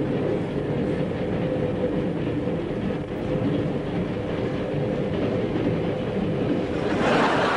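Steady rumble and rattle of a moving train carriage, with wheels clattering over the rails, getting a little louder and brighter near the end.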